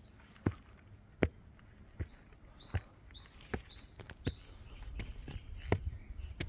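Footsteps walking at a steady pace, about one step every three-quarters of a second. From about two seconds in, a songbird gives five short, high notes in a row, each rising sharply.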